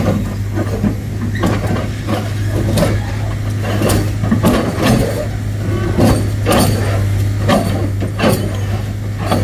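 Heavy diesel engine running steadily, with irregular knocks and clatter over it.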